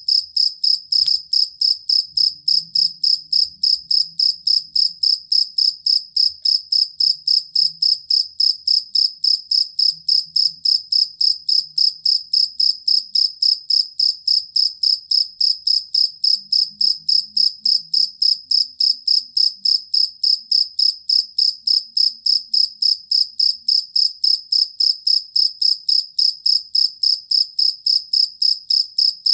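Cricket chirping steadily: a high, even train of short chirps at about three a second that never breaks.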